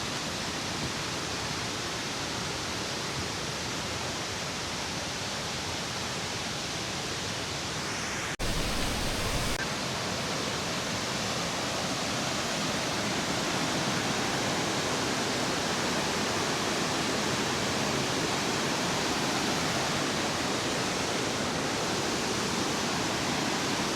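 Steady rushing roar of a large waterfall. About eight seconds in, the sound cuts and comes back a little louder, with a low rumble for about a second.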